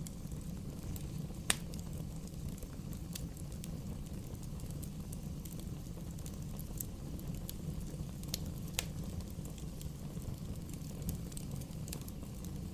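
Wood fire burning: a steady low rumble with scattered sharp crackling pops, the loudest about a second and a half in.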